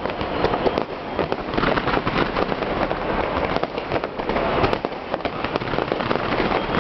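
Fireworks display: a dense, continuous crackle of many shells bursting and crackling at once, with no pause.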